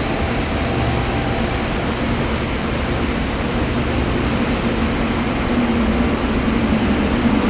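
Steady rumble of a train at a railway station, with a low hum that grows stronger in the last two seconds.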